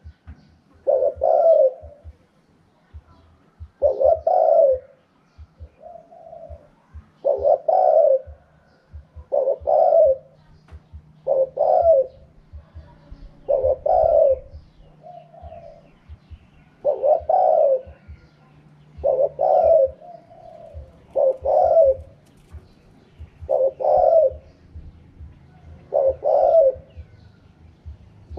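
Spotted dove cooing: short multi-note phrases repeated about every two seconds, in the wild-style ('karam pa') call pattern that dove keepers listen for.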